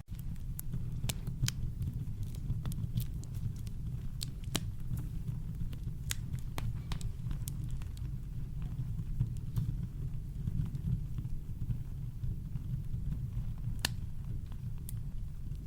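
Campfire crackling: scattered sharp pops and snaps, irregular, over a steady deep rumble of brown noise.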